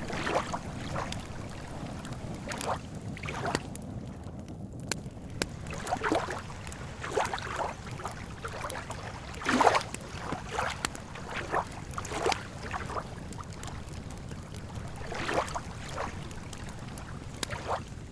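Campfire crackling with sharp little pops, over small lake waves lapping and sloshing at irregular intervals, one splash louder about halfway through.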